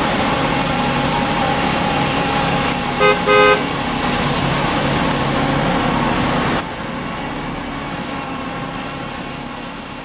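Engine-running sound effect from a remote-control toy concrete mixer truck, with two short horn toots about three seconds in. The engine sound drops in level a little past the middle and fades toward the end.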